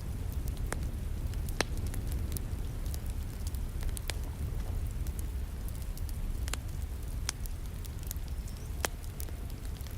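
Wood fire crackling in a fireplace, with irregular sharp pops every second or two, over the steady rush of falling rain.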